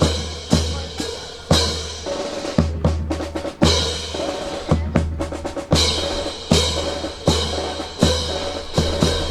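Percussion rhythm of bass drum and snare strokes, about two hits a second with deep booming thuds on many of the beats, playing the accompaniment for a rifle fancy drill.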